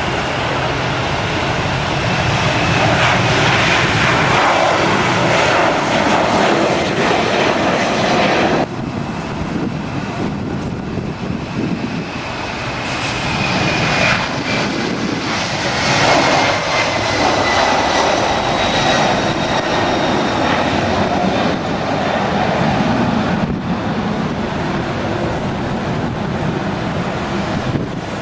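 Airliner engines running loud, with a high whine over the roar that slowly falls in pitch; the sound changes abruptly about eight and a half seconds in.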